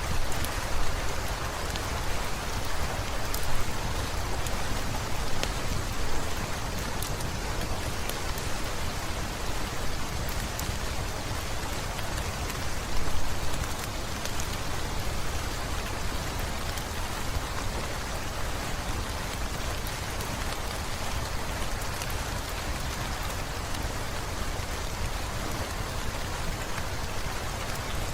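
Heavy rain falling steadily, a dense even hiss, with scattered sharp ticks and a few brief swells.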